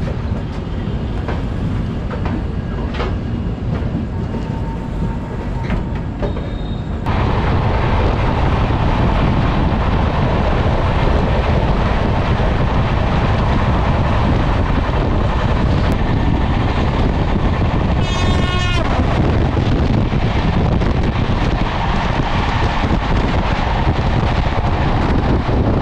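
Passenger train heard from an open coach doorway. At first it rolls slowly with scattered clanks; a sudden jump in loudness about seven seconds in gives way to the steady rush of wheels and wind as it runs at speed. A short horn blast comes about two-thirds of the way through.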